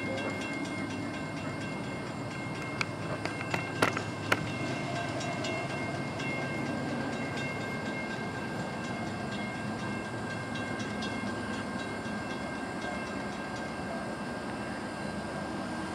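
Distant train running steadily along the main line, with a few sharp clicks about three to four seconds in.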